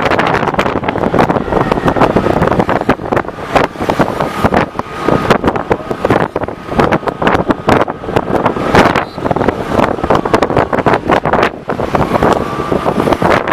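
Wind buffeting the microphone of a moving bike, loud and gusty, over a steady rush of vehicle and road noise.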